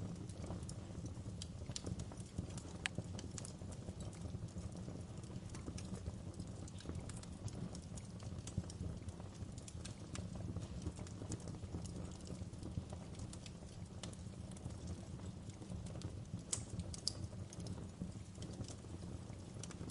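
Wood fire burning in a fireplace, crackling with scattered irregular pops and snaps over a steady low rumble of the flames. A few louder snaps come about three seconds in and near the end.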